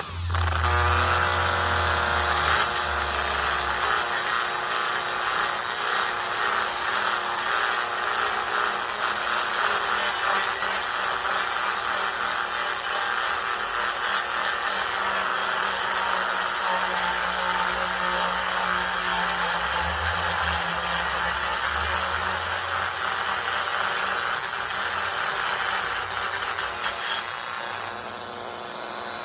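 Dremel rotary tool running at high speed with a steady high whine, grinding and sanding a pine wood block. It eases off near the end.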